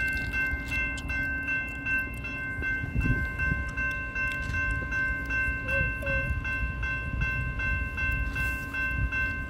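GO Transit commuter train passing on the tracks with a steady low rumble. Over it, a warning signal sounds in quick even pulses of several fixed tones, about three a second.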